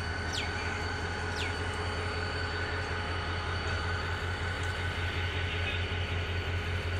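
Train running with a steady low drone. Two short falling whistles sound early on, about a second apart.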